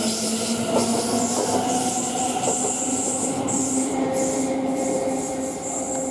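A pair of Class 720 electric multiple units pulling away, with a traction motor whine that rises slowly in pitch and a high hiss. There are a few clicks in the first seconds.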